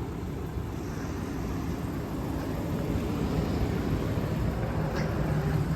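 Steady low rumble of a vehicle engine running, growing slightly louder, with a faint click about five seconds in.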